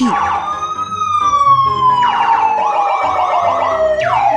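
Police vehicle sirens sounding: a slow wail gliding down and back up in pitch, a quick warbling yelp about two seconds in, and a fresh siren sweep near the end, with more than one siren overlapping.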